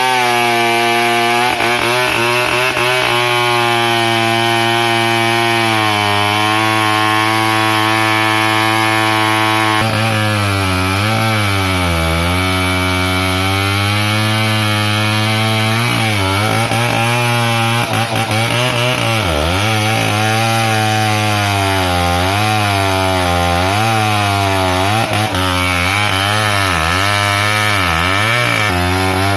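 Two-stroke chainsaw running at high revs while felling a buttressed tree. For about the first ten seconds the engine note holds steady. After that it repeatedly dips under load and picks back up as the chain bites into the wood.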